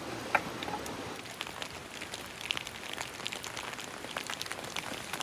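Steady rain falling, with scattered drops ticking irregularly on nearby surfaces, and one brief, sharper sound about a third of a second in.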